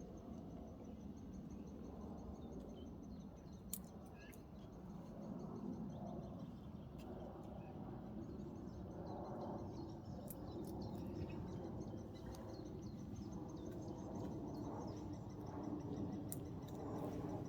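Outdoor ambience: a steady low rumble with a few faint bird chirps and a thin, high pulsing trill.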